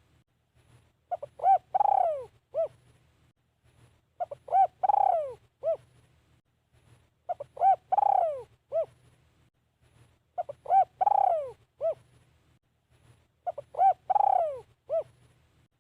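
Spotted dove cooing its song five times at an even pace. Each phrase is two short coos, a long coo that falls in pitch, and a short final coo.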